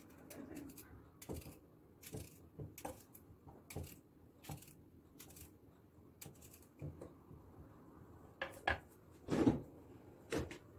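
Household clatter of dishes and utensils being handled and set down: a string of light clicks and knocks, with the loudest clanks a couple of seconds before the end.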